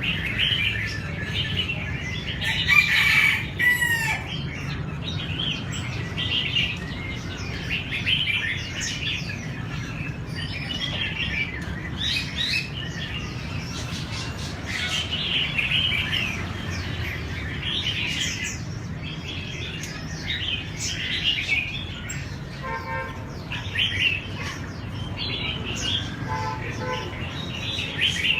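Several red-whiskered bulbuls singing, short bright phrases overlapping one another throughout, over a low steady hum. Twice near the end comes a short run of rapid, even pulses.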